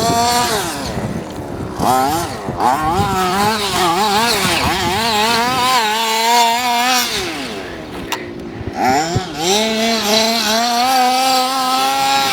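Zenoah G230RC 23cc two-stroke petrol engine of an FG Marder RC car running hard, its pitch wavering up and down with the throttle. It holds a high pitch for a couple of seconds, falls away about eight seconds in, then climbs again.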